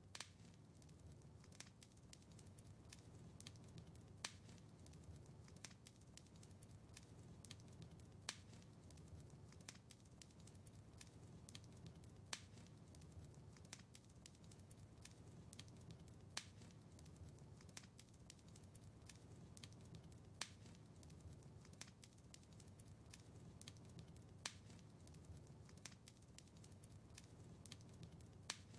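Wood fire crackling faintly over a low rumble, with many small clicks and a louder sharp pop about every four seconds.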